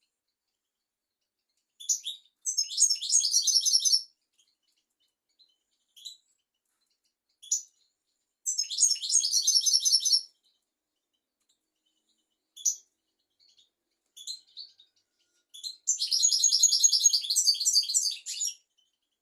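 European goldfinch singing: three bursts of rapid, high twittering song, each about two seconds long, with short single call notes between them.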